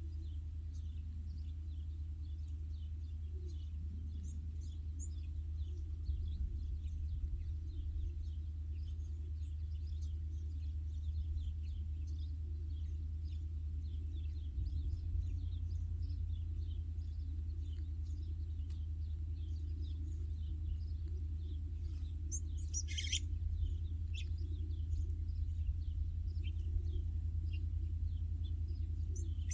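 Small birds chirping, a steady stream of short, quick high chirps with one louder call about 23 seconds in, over a steady low rumble.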